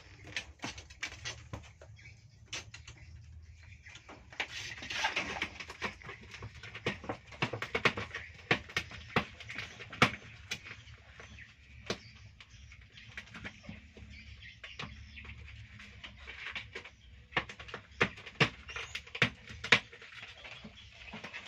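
Quiet scuffling of a cat and a young civet play-fighting on a cloth-covered bench: scattered soft scratches, taps and rustles of paws and bodies on fabric and wall, busier for a few seconds about five seconds in and again near the end.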